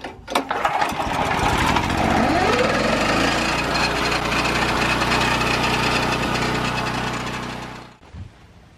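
Small petrol engine of a portable Lucas sawmill starting up, revving up over a couple of seconds and running steadily, then winding down and stopping near the end.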